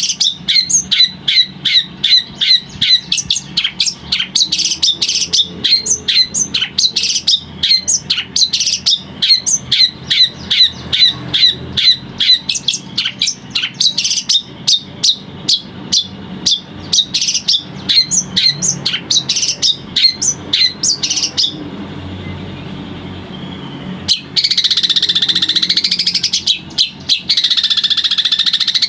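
Long-tailed shrike (cendet) singing. It gives a fast run of sharp, repeated chirps, about three a second, for some twenty seconds. After a brief pause it breaks into a continuous wavering, buzzy trill near the end.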